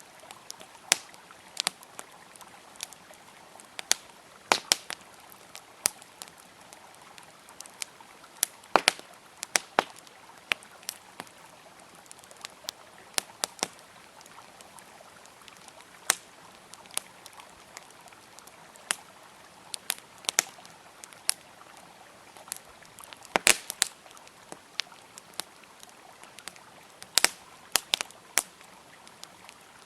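Campfire wood crackling and popping with sharp, irregular snaps, over the steady rush of a flowing river.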